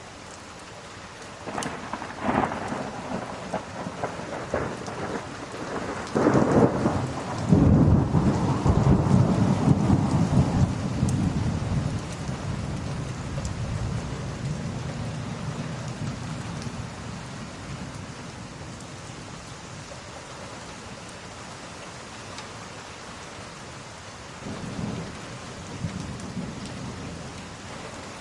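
Steady rain with a thunderclap: a crackling peal builds a couple of seconds in, breaks into a loud rolling rumble, then slowly fades. A second, weaker rumble comes near the end.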